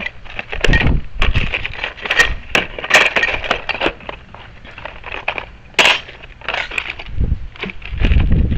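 Rapid clicking and clattering of a locksmith's rekey kit and tools being handled and rummaged through, with a few low thuds near the end.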